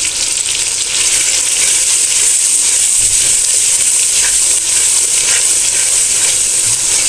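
Tomato-onion masala sizzling in hot oil in a metal pan, a steady high hiss, while a wooden spatula stirs in freshly added ground spices with a few faint scrapes about four to five seconds in.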